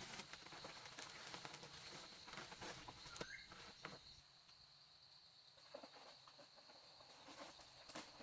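Faint outdoor ambience: a steady high insect drone, with scattered soft taps and rustles and one short rising chirp about three seconds in.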